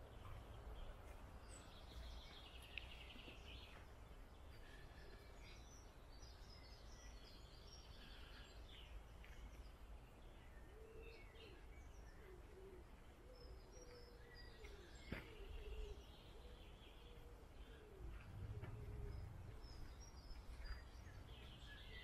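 Faint small birds chirping and singing on and off over a low outdoor rumble, with one sharp click about two-thirds of the way through.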